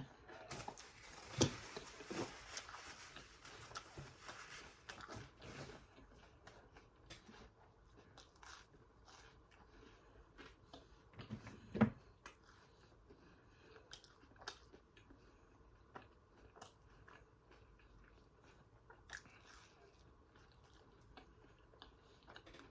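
A person chewing and biting food close to the microphone, eating with the hands: crunchy bites in the first few seconds, then scattered wet smacking clicks, with two heavier knocks about a second and a half in and near the middle.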